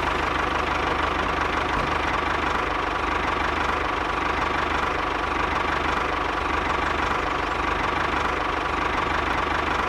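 Tractor engine idling steadily with a knocking diesel clatter.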